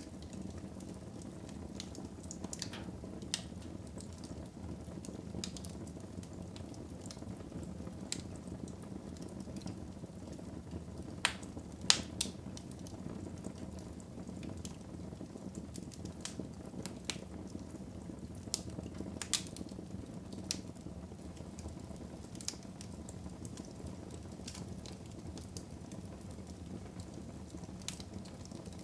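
Fire burning in a fireplace: a steady low rumble with scattered crackles and pops, the two loudest pops about eleven and twelve seconds in.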